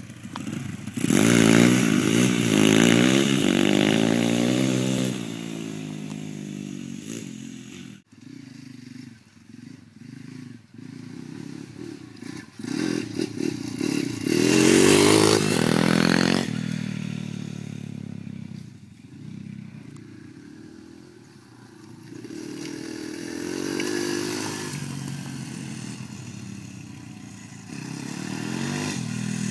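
Small dirt bike engines revving up and down as they ride past, loudest about a second in, around fifteen seconds and near the end, with quieter stretches between.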